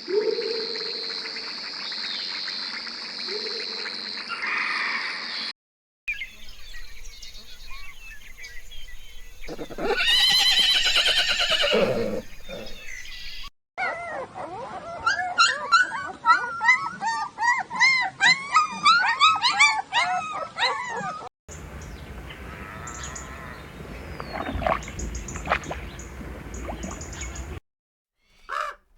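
A string of short animal-call clips cut abruptly one into the next. About ten seconds in comes one loud drawn-out call. From about fourteen to twenty-one seconds there is a rapid run of many short chirping calls.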